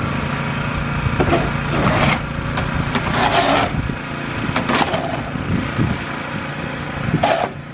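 Snowblower's small engine running steadily, with a series of short scraping noises over it.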